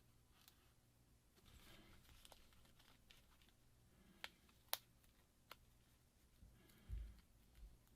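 Faint handling sounds of small repair tools and phone parts: light rustling, a few sharp little clicks about four to five and a half seconds in, and a soft low bump near the end.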